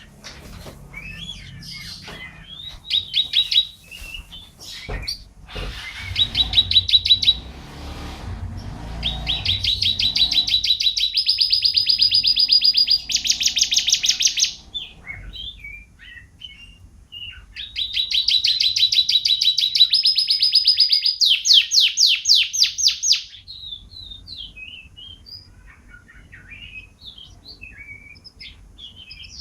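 Domestic canary singing: two long song bouts made of fast trilled phrases, each a rapid run of repeated notes that steps up to a higher pitch phrase by phrase. Scattered short chirps come between and after the bouts.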